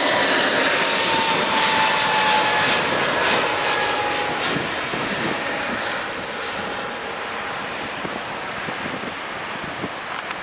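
Jet airliner passing close by. Its engine whine falls slowly in pitch and the noise gradually fades as it moves away.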